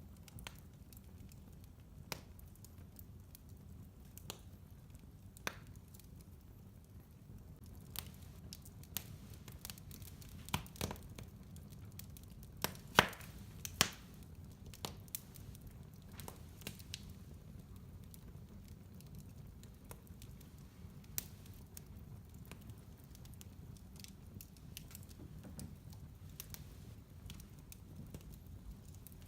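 Fire burning in a fireplace: irregular crackles and pops over a low steady rumble, with a few louder pops about halfway through.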